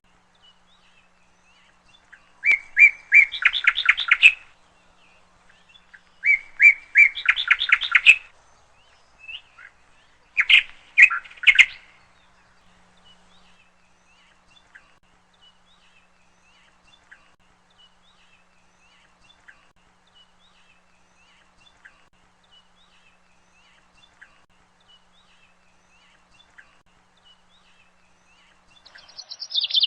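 A bird singing three loud phrases of quick repeated notes in the first twelve seconds, followed by faint single chirps every couple of seconds.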